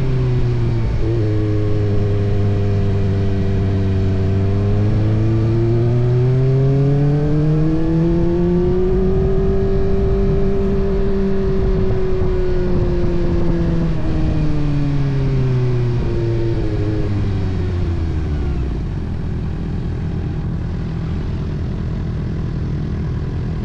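Kawasaki ZX-6R inline-four engine under way: the revs sit low, climb smoothly, hold for a few seconds, then fall away, and about three-quarters of the way through settle to a steady idle.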